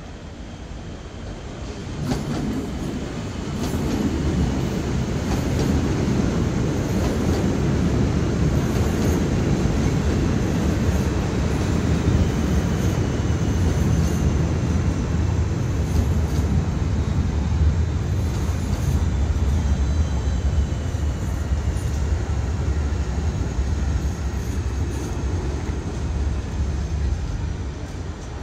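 Red DB Regionalbahn electric train running along the track beside the platform: a steady rumble of wheels on rails that grows louder about two seconds in and holds strong, easing off slightly near the end, with a faint high whine falling in pitch.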